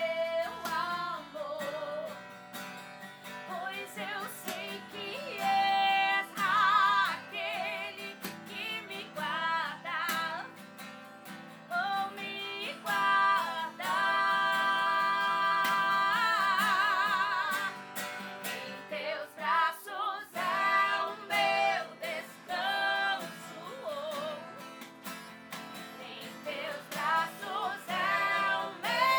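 A woman singing a Portuguese worship song to acoustic guitar accompaniment, holding one long note with vibrato about halfway through.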